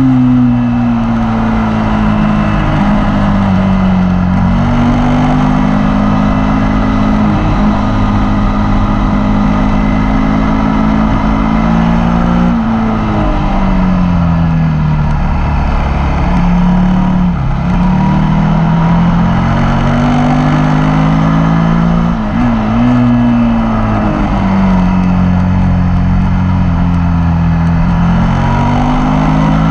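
Suzuki SV V-twin motorcycle engine running hard at high revs. The pitch climbs and falls over a few seconds at a time, with marked drops about twelve seconds in and again past twenty seconds, under steady wind rush on the bike-mounted microphone.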